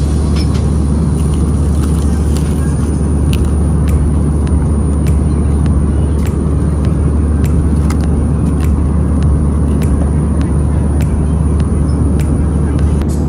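Steady loud cabin noise inside an Airbus A320 airliner: a deep, even rumble of engines and airflow, with faint scattered clicks.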